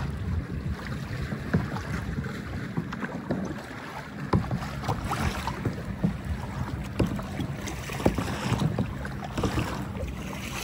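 Wind buffeting the microphone, over irregular splashes and knocks of water.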